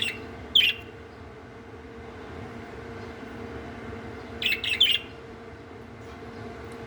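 Budgerigars chirping in short calls: two near the start, then a quick run of three about four and a half seconds in. A faint steady hum runs underneath.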